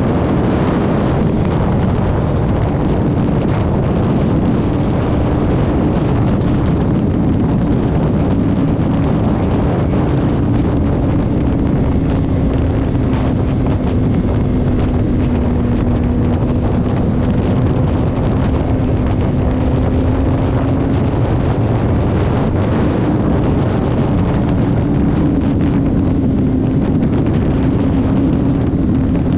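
A vehicle cruising at highway speed: a steady engine drone over heavy wind and road noise. The engine tone sags slightly midway and climbs back near the end.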